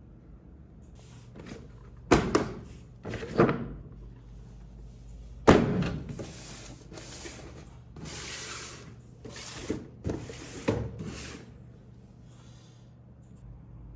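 Toy and packaging being handled: a handful of sharp knocks and clacks, with short bursts of rustling or scraping noise between them in the middle.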